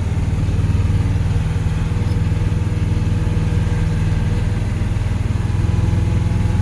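Chevrolet M1028 CUCV's 6.2-litre diesel V8 running steadily as the truck drives along a snowy road that is levelling out after a climb.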